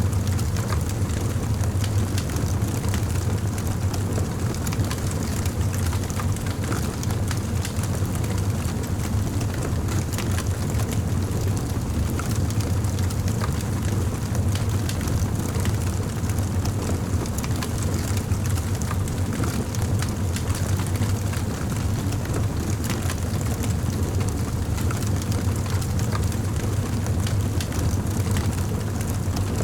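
Campfire burning: a steady low rumble of flames with many small crackles and pops scattered throughout.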